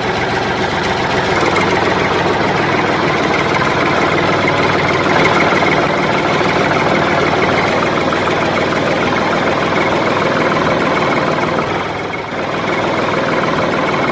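Mini tractor's engine running steadily at idle, with a brief drop in level about twelve seconds in.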